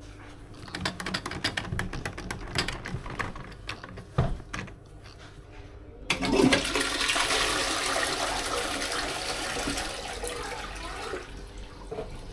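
Irregular clicks and taps, then about six seconds in a toilet flushes from a GROHE concealed cistern. Water rushes into the bowl, runs on for several seconds and slowly tails off.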